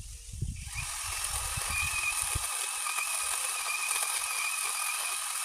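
Mini chainsaw running at speed with a steady high whine that starts about half a second in. Wind buffets the microphone with a low rumble for the first couple of seconds.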